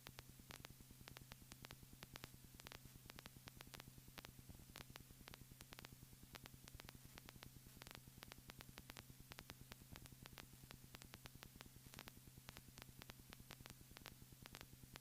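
Near silence: a faint steady hum and hiss, dotted with rapid crackling clicks like line static.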